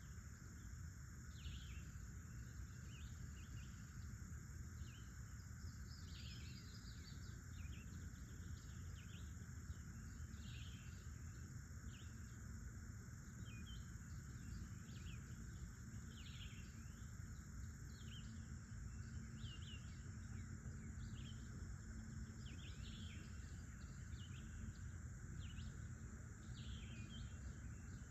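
Faint outdoor ambience of birds chirping in short, irregular calls, one or two a second, over steady high insect drones and a low rumble.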